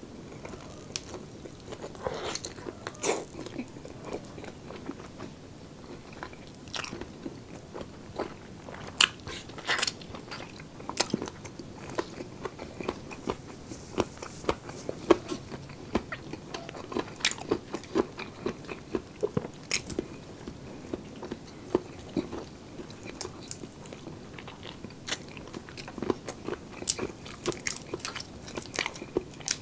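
Close-miked eating: a person chewing and biting roast chicken, with many short, irregular mouth clicks. Near the end, the shell is being pulled off a cooked shrimp by hand.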